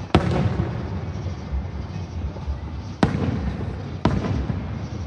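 Aerial fireworks bursting: three sharp booms, one just after the start, one about three seconds in and one about a second later, each trailing off in a rumbling echo.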